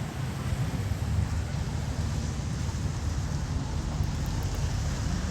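A car engine running with a steady low rumble, with wind buffeting the microphone.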